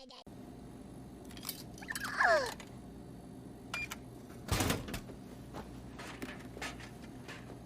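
A series of knocks and clicks over a steady low hum. About two seconds in there is a short squeal falling in pitch, and about four and a half seconds in a louder thump.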